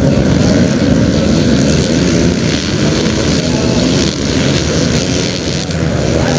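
Motocross bike engine running loudly and steadily.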